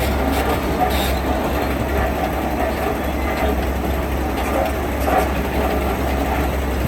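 Heavy diesel construction machinery running steadily: a deep engine rumble with faint knocks and rattles now and then.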